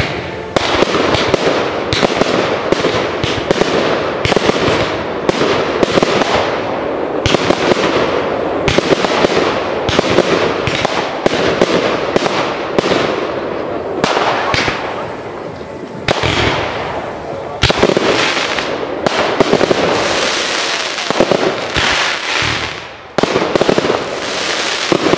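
Fireworks display: a rapid, overlapping string of shell launches and bursts with crackling, loud throughout, with a short dip about 23 seconds in before the shots resume.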